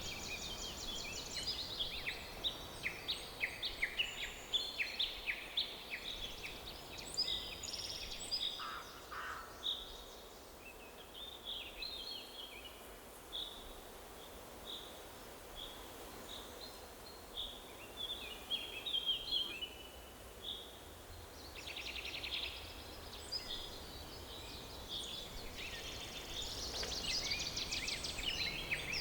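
Forest ambience of several songbirds chirping and trilling over a faint steady background hiss. The birdsong is busiest at the start, thins out through the middle and picks up again near the end.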